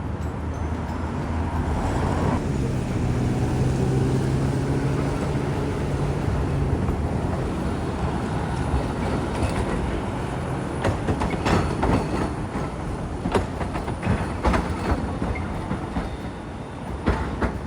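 Hiroshima Electric Railway streetcar passing: a low running hum first, then its wheels clacking over the track joints in an uneven series of sharp knocks through the second half.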